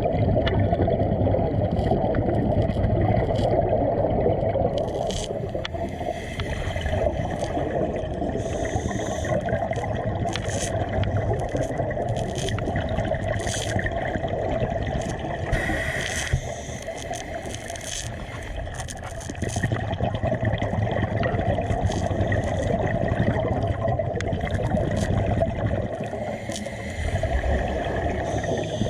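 Steady low rumbling water noise with gurgling and many scattered short clicks, dipping briefly in level about midway.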